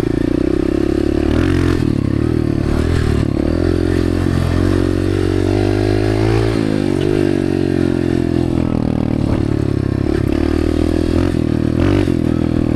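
Honda dirt bike engine running and being revved while it warms up, its pitch rising and falling repeatedly, with one longer rev and drop about halfway through.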